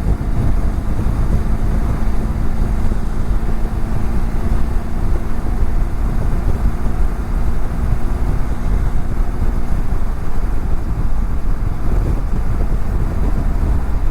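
Wind rushing over the microphone while a BMW F700GS parallel-twin engine drones steadily at cruising speed. The engine's steady tone fades under the wind about ten seconds in.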